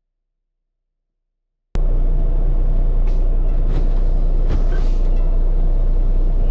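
Diesel truck engine running steadily, heard close; it cuts in suddenly about a second and a half in after dead silence, with a few faint knocks over it.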